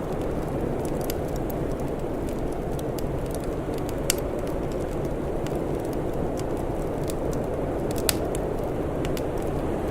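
Wood fire crackling, with scattered small clicks and two sharper pops about four and eight seconds in, over a steady low rushing noise.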